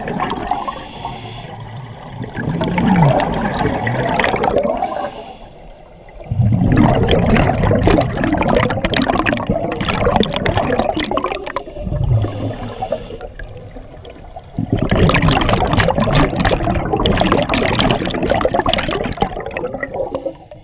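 Scuba regulator exhaust bubbles rushing and gurgling as a diver breathes out underwater, in long surges of several seconds with quieter breathing-in pauses between.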